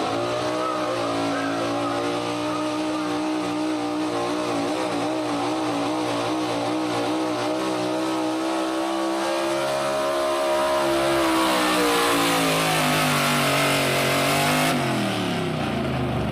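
Altered gas pulling truck's engine running at high revs under load during a pull, dipping slightly midway and then climbing again. Near the end the throttle shuts off abruptly and the revs fall away.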